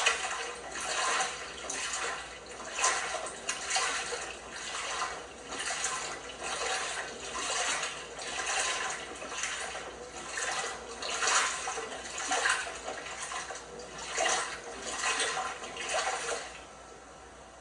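LG washing machine in its wash cycle, the drum tumbling the wet load with a rhythmic watery swish about once a second. The swishing stops about sixteen seconds in.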